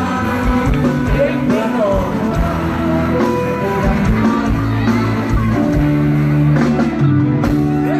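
Live band music from an Isan luk thung band in a passage between sung lines: a steady drum beat, bass and electric guitar carrying the tune.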